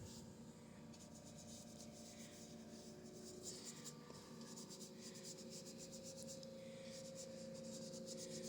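Paintbrush scrubbing acrylic paint onto a canvas in quick, faint, scratchy strokes.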